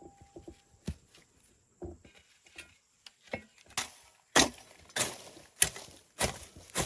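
A hand tool striking wood: a few light, scattered knocks, then from about halfway through a steady run of sharp blows roughly every 0.6 seconds.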